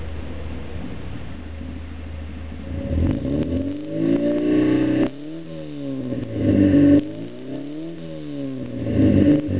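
Ford Orion 1.3's four-cylinder engine and exhaust. It runs at a steady low note for about three seconds, then revs climb and are cut off sharply about five seconds in, and it revs up and drops back twice more.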